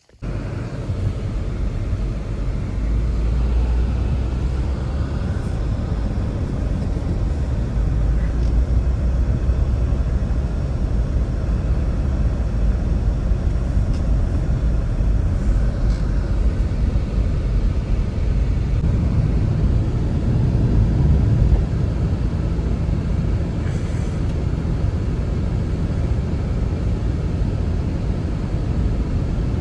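Strong blizzard wind blowing, a steady low rumbling rush.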